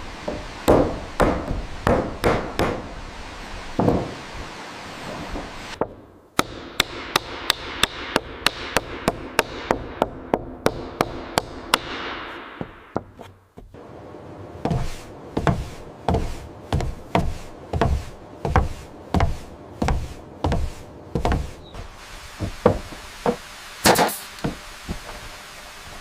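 Repeated hard blows on wood, as in construction work with a hand tool, in several runs with sudden breaks between them. First come irregular strikes. Next is a fast, even run of about three blows a second with a slight ringing under it. Then comes a slower, steady run of about two a second.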